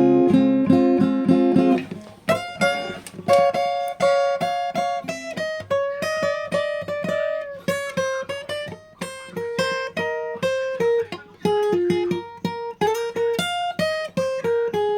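Acoustic guitar music with no singing: a couple of seconds of strummed chords, then a picked single-note melody.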